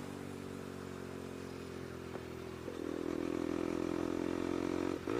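Bajaj Pulsar NS200's single-cylinder engine running through an aftermarket SC Project exhaust, steady at low revs. It picks up a little about two and a half seconds in and dips briefly near the end.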